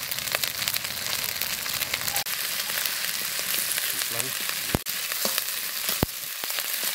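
Spice paste (masala) sizzling in hot oil in a metal wok, stirred and scraped with a metal spatula. There are scattered clicks and two sharp knocks of the spatula against the pan, the first a little after the middle and the second near the end.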